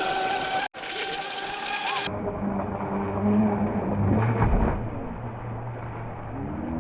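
Steady whine of a radio-controlled crawler's electric motor. About two seconds in it cuts to a duller, muffled recording with a steady low hum, and a falling tone comes near the end.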